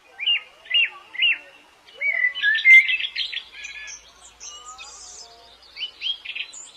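White-eyes (pleci) calling: three sharp upswept chirps in the first second and a half. About two seconds in comes a quick jumble of chirps and twitters, and a few more chirps near the end.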